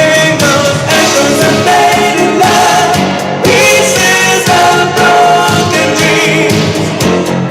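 A 1985 pop song from a 12-inch extended version: sung vocals with layered, choir-like backing voices over a full instrumental backing.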